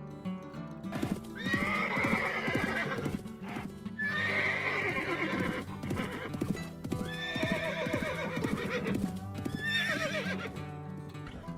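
Horse whinnying four times, each a long quavering call, with hooves clip-clopping, over steady background music.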